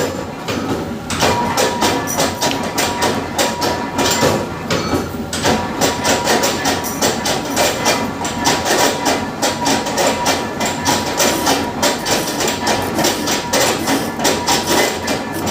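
Metal-cutting bandsaw blade cutting through steel flat bar: a continuous, loud rasping chatter with a rapid rhythmic pulse and a thin steady tone running under it.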